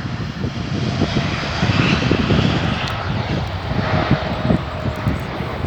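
Jet engines of a Scoot airliner coming in, a steady rumble with a rushing hiss.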